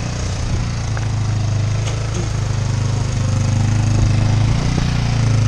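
Small off-road vehicle engine idling steadily, with an even low-pitched putter.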